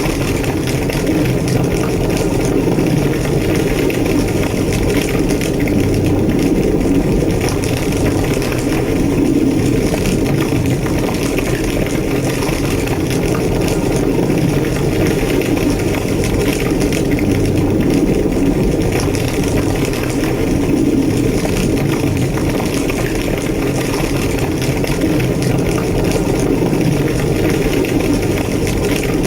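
Large burning building's fire roaring steadily, with small crackles running all through it.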